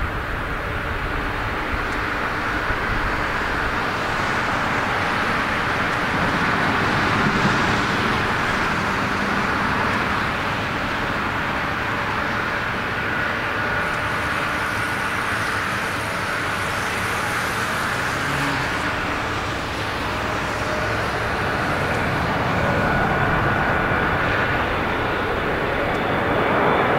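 Jet airliner engines on the approach to landing: a steady rushing jet noise with a high whine held on one pitch.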